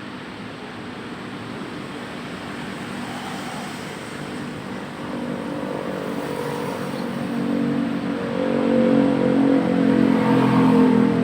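A motor vehicle's engine running close by, growing louder over the second half and loudest near the end, over a steady traffic background.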